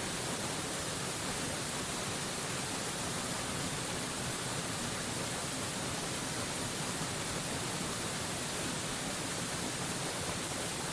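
Waterfall rushing in a steady, unbroken hiss of falling water, bright and even throughout.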